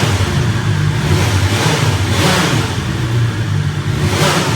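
BMW S1000XR's inline-four engine under way, its note shifting up and down as it pulls, with wind noise swelling every couple of seconds.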